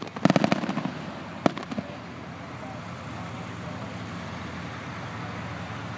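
Aerial fireworks going off: a rapid string of sharp bangs in the first second, one more single bang about a second and a half in, then steady background noise.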